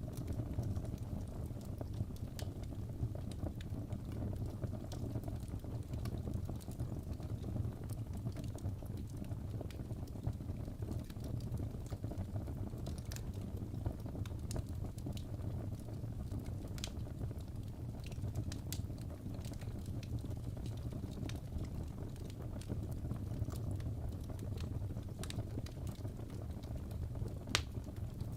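Crackling fireplace: a steady low rumble of burning wood with scattered sharp pops and snaps, one louder pop near the end.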